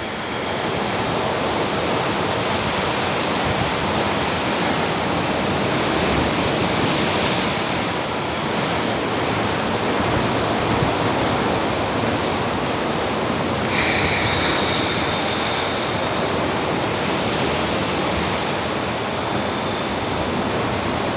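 Steady rush of ocean surf breaking on the beach. About two-thirds of the way through, a brief high-pitched tone sounds over it.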